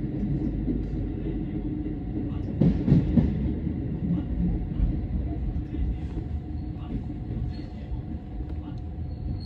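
Electric commuter train heard from inside the car: a steady low rumble of wheels on rail, with a louder clatter of knocks about three seconds in.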